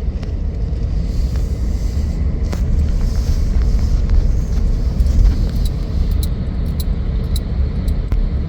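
Road noise of a car being driven, heard inside: a steady low rumble of engine and tyres, with a run of light clicks near the end.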